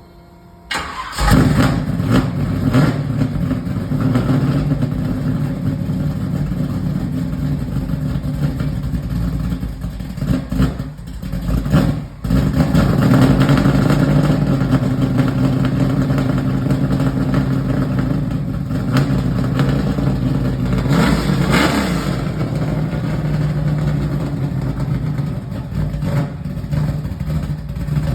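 Chevrolet Camaro engine starting about a second in, then running through its new exhaust with a deep steady note, revved briefly a couple of times.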